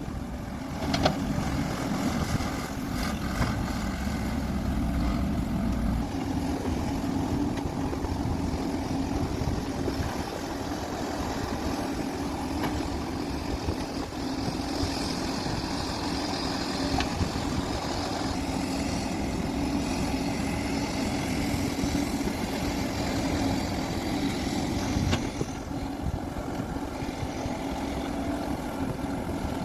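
Heavy diesel machinery running steadily, a CAT 385C excavator at work loading trucks, with a few sharp knocks.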